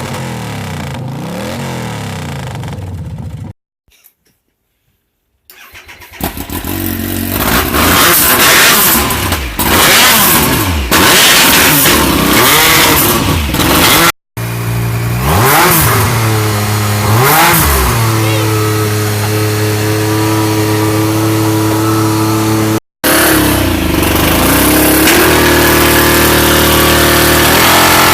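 Straight-piped Triumph Daytona T595 955cc three-cylinder engine idling and being revved, very loud, with rises and falls in pitch and a few abrupt breaks where the recording cuts. It is running on only two of its three cylinders, which the owner puts down to failed coil packs.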